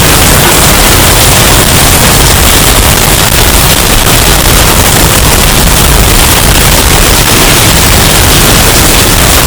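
Hurricane wind sound effect, bass-boosted and distorted into a steady, clipped wall of noise that fills every pitch from deep rumble to hiss, with no let-up.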